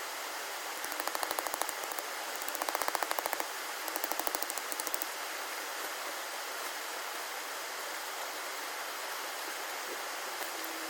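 Three short bursts of rapid clicking, about ten clicks a second, over a steady rushing hiss.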